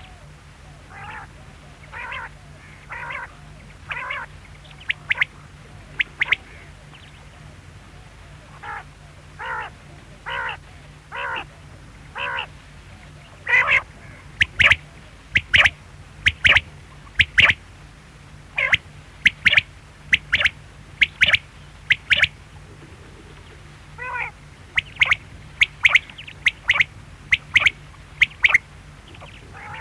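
Quail calling over and over: short rasping calls about once a second, in runs broken by brief pauses, with sharper, louder notes mixed in. A steady low hum runs underneath.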